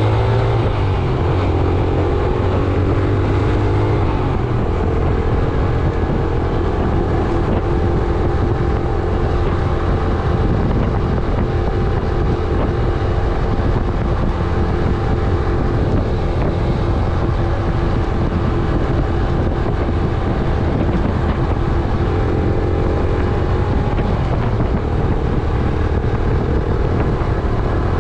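Yamaha YBR 125G's single-cylinder four-stroke engine running under way, its pitch rising as it accelerates in the first few seconds and again near the end, holding steady between. Wind rushes over the microphone.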